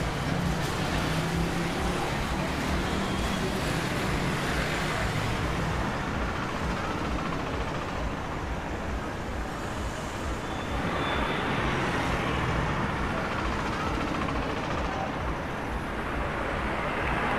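Road traffic noise: a steady hum of passing vehicles on a busy street, swelling as vehicles go by about a second in and again around eleven seconds.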